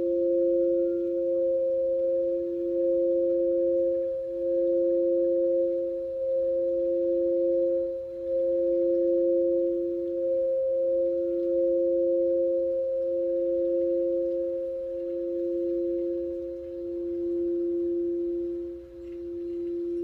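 A sustained 528 Hz tone together with an F heart chakra singing bowl ringing steadily, two pure notes held together. The lower bowl note swells and dips about every two seconds.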